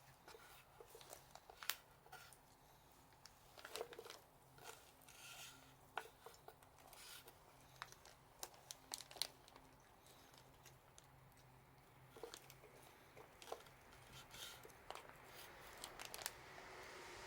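Faint crackling of a wood fire, with scattered sharp snaps and pops at irregular intervals.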